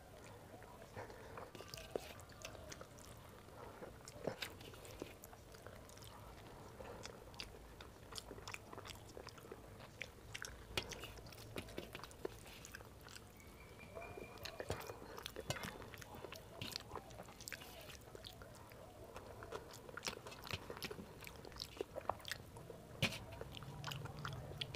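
Faint close-up eating sounds: chewing and mouth clicks on mouthfuls of rice eaten by hand, with short clicks and scrapes of fingers gathering the last grains on a steel plate.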